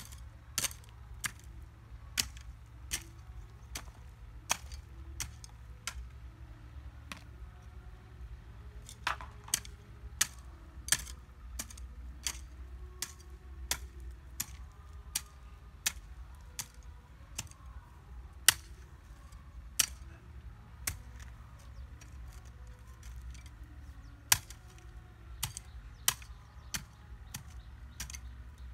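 Sharp knocks or clicks repeating irregularly, about once or twice a second, over a low steady rumble.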